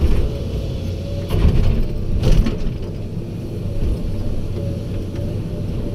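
Heavy diesel machinery engine running steadily, with two brief louder clanks about one and a half and two and a quarter seconds in.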